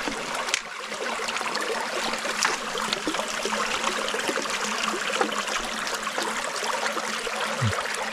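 Shallow stream water running and trickling steadily, with a few short sharp sounds scattered through it.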